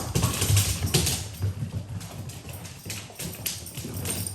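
Dogs scampering in play, their claws and paws clicking and patting on the floor in quick irregular steps, with some duller thumps.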